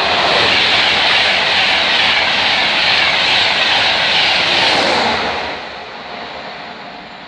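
Class 91 electric locomotive and its train passing at speed: a loud rush of wheel and air noise that dies away after about five seconds.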